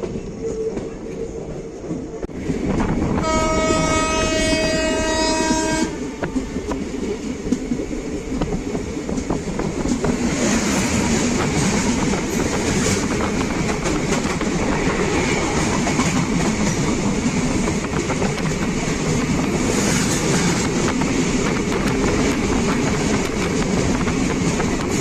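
Train running noise heard from aboard a moving passenger train: steady rumble and clatter of wheels on rail. A train horn sounds once, about three seconds in, for roughly two and a half seconds. The running noise grows brighter and louder from about ten seconds in.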